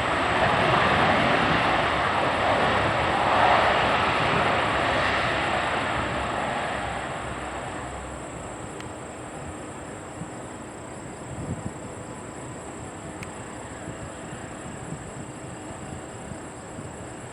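Jet engine noise of a Boeing 737 MAX's CFM LEAP-1B turbofans after landing: a loud rushing roar that swells about three to four seconds in, then fades away over the next few seconds as the plane rolls off, leaving a low background with a few faint clicks.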